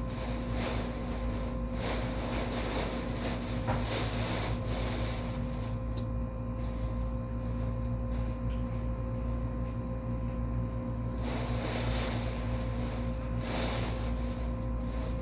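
Hurricane wind blowing in gusts and buffeting the microphone, easing for a few seconds in the middle, over a constant low rumble and a steady hum.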